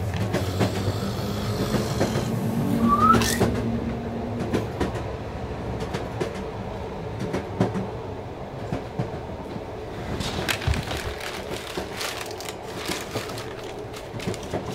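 Train running along the track: a steady rumble with the clicks of the wheels over the rails, and a brief rising squeal about three seconds in.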